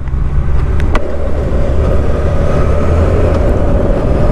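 Suzuki GSX1250FA's inline-four engine running steadily while riding at speed, under a steady rush of wind and road noise.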